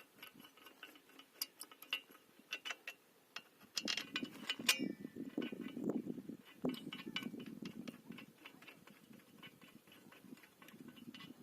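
Irregular small clicks and light knocks with some rustling, as pump fittings are handled and tightened by hand; the handling is denser around the middle.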